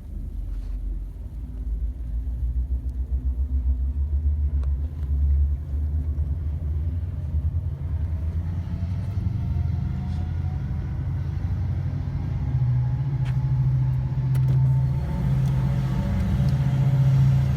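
Diesel locomotive rumbling as a train approaches, growing louder; a steady low engine tone comes in about twelve seconds in.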